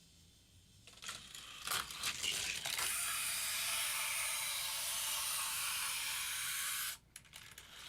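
Hot Wheels die-cast car running on plastic orange track: a few seconds of clicking and clattering, then a steady rolling hiss that cuts off suddenly near the end.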